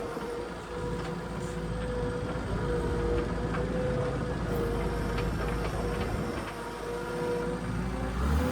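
New Holland skid steer's diesel engine running under working load while plowing snow, a low steady rumble with a whine over it and a few light knocks.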